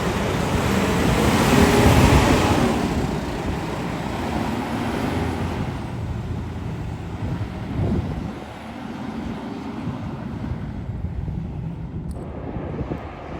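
Vehicle and traffic noise, loudest in the first few seconds and then fading to a lower steady rumble.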